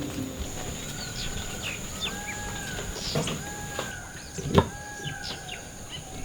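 Birds calling: a drawn-out whistled note that rises, holds and falls, repeated three times, among short quick chirps. A steady high whine runs underneath, and a single sharp knock comes about four and a half seconds in.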